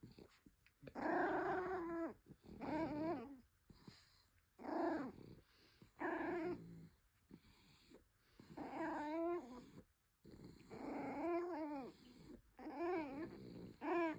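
A dog vocalising in a series of about eight wavering, pitched calls, each up to about a second long, with short pauses between them.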